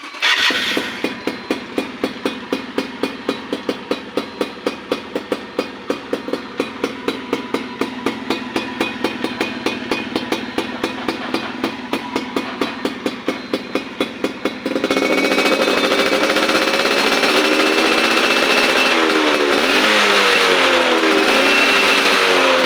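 Yamaha Alfa two-stroke single-cylinder engine running through a KYX aftermarket exhaust, first at a pulsing idle of about three beats a second, then revved up and down repeatedly from about fifteen seconds in, louder.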